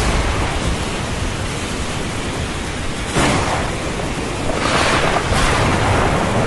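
Thunderstorm ambience: a steady rush of rain and ocean surf over a constant low rumble, with surges like breaking waves about three seconds in and again around five seconds.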